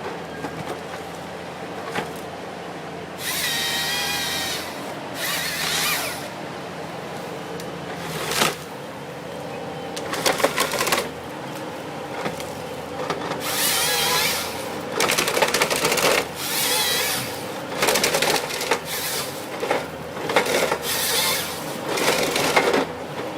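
Forestry harvester's diesel engine running steadily, broken by repeated loud bursts of one to two seconds of harsh rasping and whining as the head saws and strips logs.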